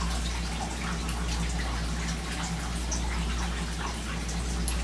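Steady low hum of an idle CNC mill after a grinding program, with scattered drips and a light trickle of liquid, like coolant draining off the part and enclosure.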